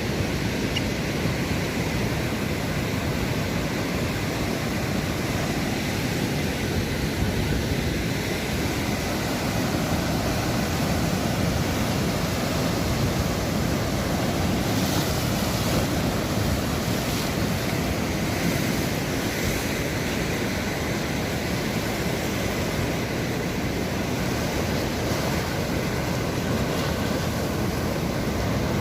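Sea waves breaking and washing steadily on the shore, with wind buffeting the microphone. A few brief hissing washes come about halfway through.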